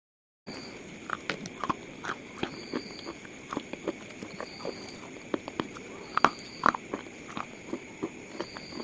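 Slate crunching and cracking in an irregular run of sharp snaps, starting after a brief half-second of silence. The loudest cracks come a little past the middle.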